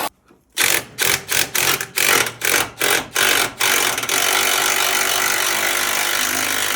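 Power tool zipping a bolt out: about nine short trigger pulls, then held running for about three seconds before it stops.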